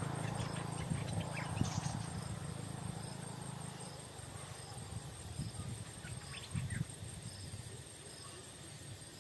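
Insects chirping in an even, steady rhythm under a faint high whine, with short bird calls about one and a half seconds in and again around six and a half seconds in.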